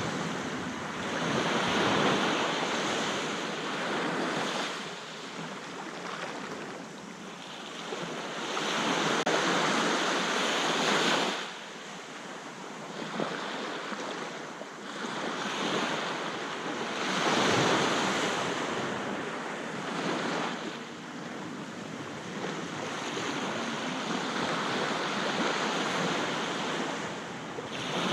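Sea waves breaking on a beach, each surging up to a broad hiss and washing back, in slow swells about every seven to eight seconds.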